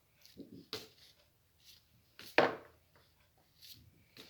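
A few short knocks and rubbing sounds, the loudest a single knock a little past halfway through.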